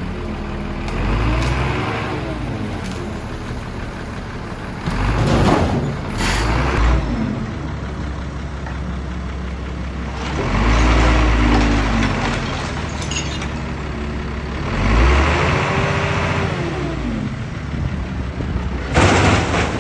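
A large engine running, revving up and down in several swells, with short bursts of hiss about six seconds in and near the end.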